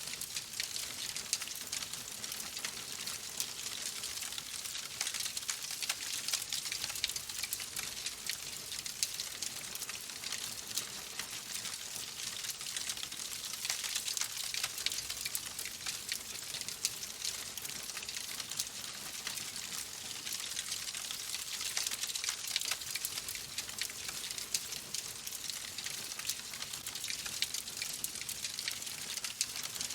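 Wood fire crackling steadily in a fireplace: a constant soft hiss dotted with many small, quick pops and snaps.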